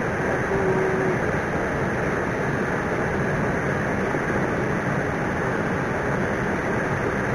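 Steady rushing of flowing river water, an even noise without pauses or rhythm.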